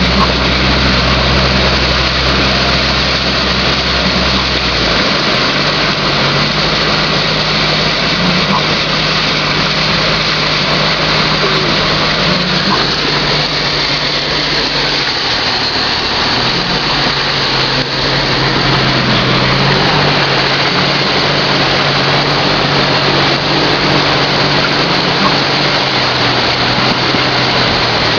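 Car engine running steadily while driving, heard from inside the car, under a constant hiss of tyres on wet, flooded road. The engine hum shifts in pitch twice, about five seconds in and again about fifteen seconds in.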